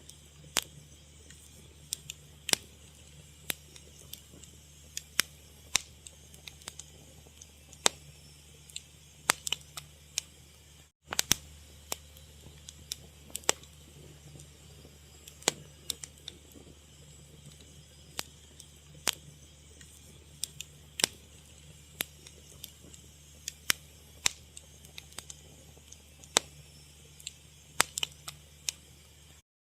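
Wood fire crackling, with irregular sharp pops and snaps over a low steady hum. The sound cuts out for a moment about eleven seconds in.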